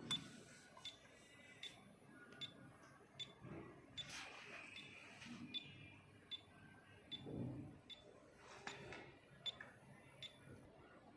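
Kyoritsu 3124A insulation tester's buzzer giving short, faint, high beeps at an even pace of about one every 0.8 seconds, with a little soft handling noise between them.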